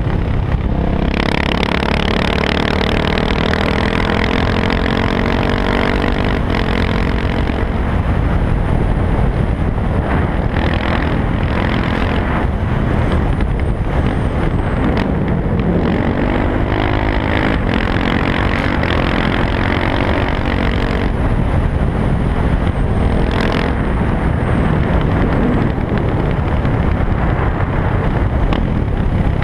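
KTM 690 SMC R's single-cylinder engine running loud through an Arrow exhaust with the dB killer removed. Its pitch slowly sinks over the first several seconds, then climbs and falls again in the middle as the revs change.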